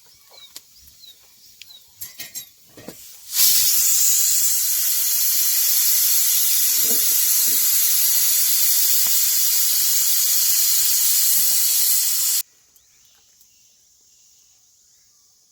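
A loud, steady hiss that starts suddenly about three seconds in and cuts off suddenly some nine seconds later, preceded by a few light clicks and knocks.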